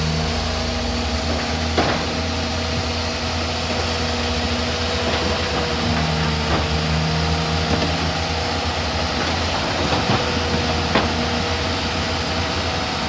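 Heavy diesel engine of a Shantui DH17C3 bulldozer running steadily under load, with a few sharp metallic clanks spread through it.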